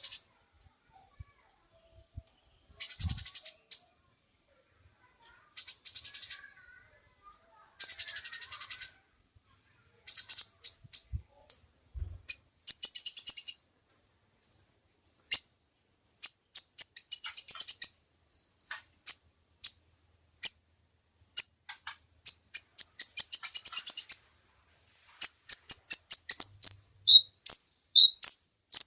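Lure-call recording of a small 'kolibri' bird: very high, rapid trilling chirps in bursts of under a second with short pauses between them, turning to a string of single sharp chirps in the second half.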